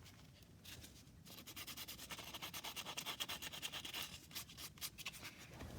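Quick back-and-forth rubbing strokes on the turned oak finial, several a second. They start faintly and grow steadier from about a second in.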